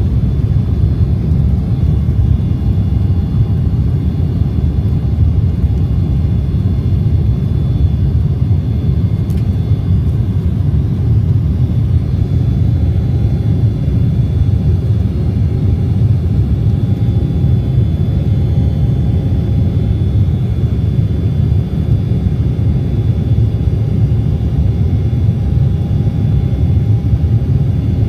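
Embraer 190 jetliner's twin GE CF34-10E turbofans at takeoff power during the takeoff run and climb: a steady, loud low rumble with a faint steady whine above it.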